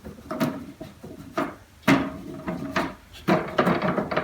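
Wooden drawers of an old chest of drawers being handled: sliding and scraping in their openings, with about five sharp wooden knocks.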